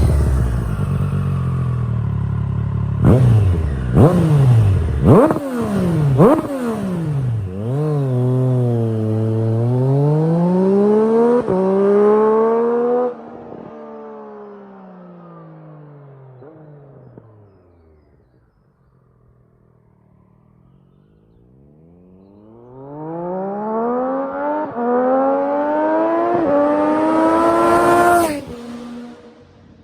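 2020 Triumph Street Triple RS 765's inline three-cylinder engine through its standard exhaust with both catalytic converters removed, revving hard in fly-bys. The pitch climbs and drops sharply several times with a few sharp cracks in the first seconds, falls away to faint about halfway through, then comes back rising and cuts off suddenly near the end.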